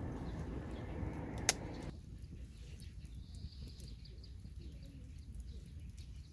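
Outdoor ambience with birds calling faintly, a single sharp click about one and a half seconds in, and the background noise dropping abruptly near two seconds.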